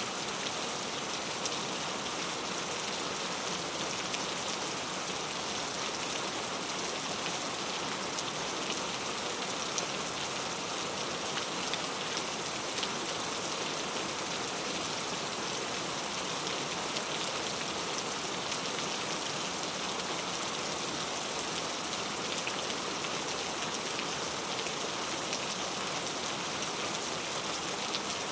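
Steady rain falling: a dense, even hiss with small drop ticks scattered through it.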